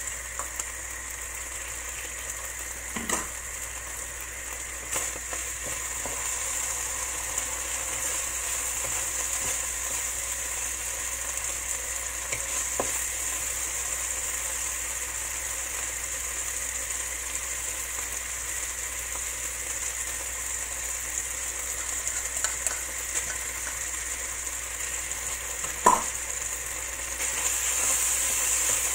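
Food frying in a hot wok over a gas burner, with a steady sizzling hiss and a few sharp knocks, the loudest near the end. The sizzle gets a little louder over the last couple of seconds as a wooden spatula stirs the wok.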